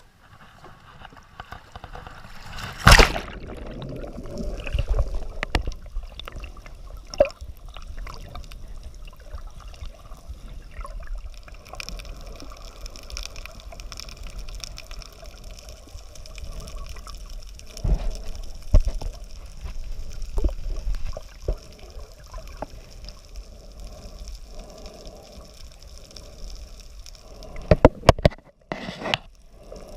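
Water sloshing and splashing, with a low rumble and a few sharp knocks: a loud one about 3 seconds in, more around the middle, and a cluster near the end.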